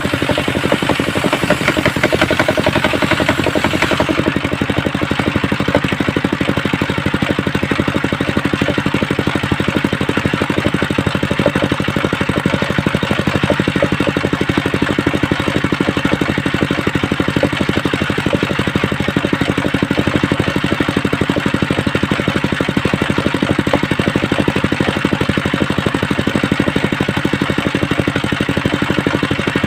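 The engine of a homemade circular sawmill running steadily. A brighter hiss rides over it for the first four seconds and stops suddenly about four seconds in.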